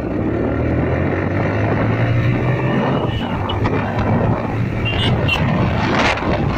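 TVS Apache RTR 180's single-cylinder four-stroke engine accelerating hard, its note rising as the motorcycle picks up speed. Wind rushes over the microphone, growing louder near the end.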